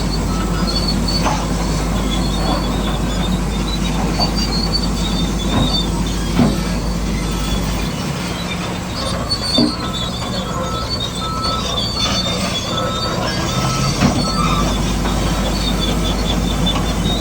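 Radio-controlled construction model running: a steady electric drive whine with squealing from the gears and tracks, and a few short knocks.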